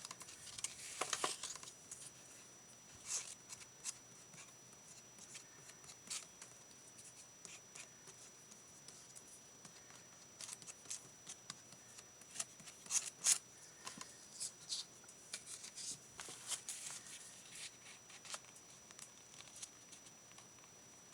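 Faint, scattered rustles, clicks and taps of paper and craft supplies being handled while paper is glued into a journal with Mod Podge.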